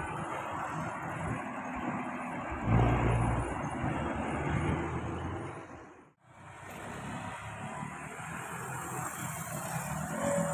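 Road vehicles passing at a level crossing: steady traffic noise with a louder low rumble about three seconds in. The sound cuts out briefly about six seconds in, then the traffic noise carries on.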